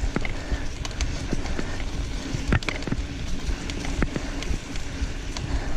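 Mountain bike riding over rough trail: a continuous rumbling noise broken by frequent sharp knocks and rattles as the bike goes over bumps.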